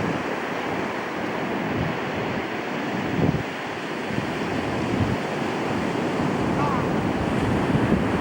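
Steady rushing wind noise with irregular low buffeting on the microphone.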